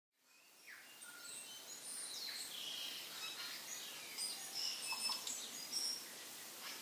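Birds chirping and whistling, many short varied calls over a faint steady hiss, fading in at the start.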